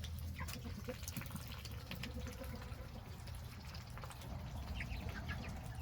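Young meat chickens and Muscovy ducklings feeding: many scattered, light, wet-sounding pecks and clicks of bills at feed and water, over a low steady rumble.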